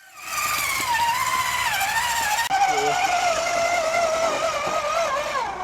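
Electric motor and gear drive of a radio-controlled scale rock-crawler truck whining, the pitch wandering up and down with the throttle. The sound drops out for an instant about two and a half seconds in.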